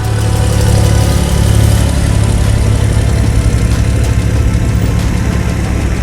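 Light aircraft's piston engine running steadily and loudly, with a fast, even low pulsing.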